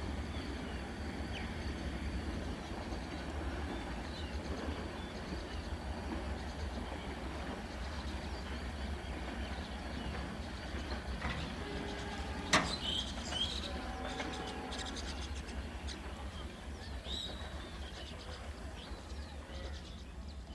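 Diesel-hauled passenger train rumbling steadily along the track as it moves away, the sound slowly fading. A single sharp click about halfway through.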